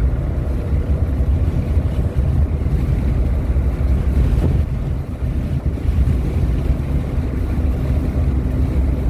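Steady low rumble of a moving vehicle's engine and tyres on the road, heard from inside the cabin.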